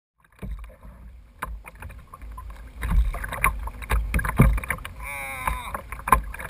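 Live sound from a sea kayak: a low rumble of wind and water on the camera microphone, with scattered knocks and clicks of gear against the kayak. About five seconds in comes a brief wavering squeal.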